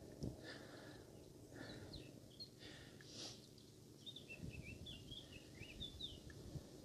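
Quiet outdoor ambience with faint bird chirps: a few scattered calls, then a run of quick twittering notes from about four seconds in. There is a soft low bump near the start.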